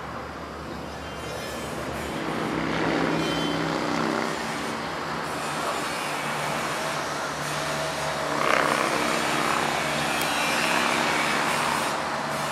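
A steady engine drone with a low hum that builds up, stays loud through the middle and eases off near the end.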